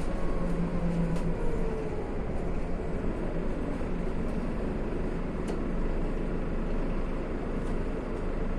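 Scania CN280UB city bus heard from inside the passenger cabin while driving: steady engine and road noise. A whine falls in pitch in the first couple of seconds, and there are a few light rattling clicks.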